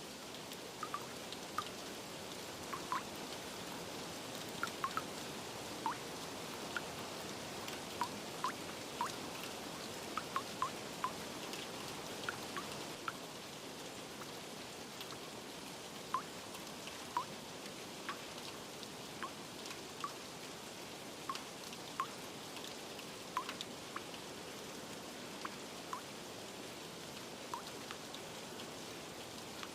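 Steady rain hiss with individual raindrops plinking irregularly, about one or two a second.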